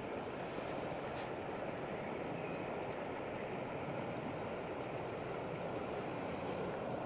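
Steady rush of a fast, flood-swollen river. About four seconds in, a bird gives a high, rapid trill lasting under two seconds, with a shorter one at the very start.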